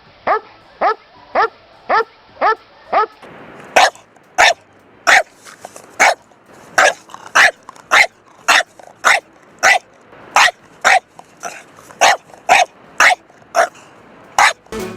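Dog barking in a steady series of single barks, about two a second. A little over three seconds in the recording changes to another dog barking a little more slowly, about one and a half barks a second.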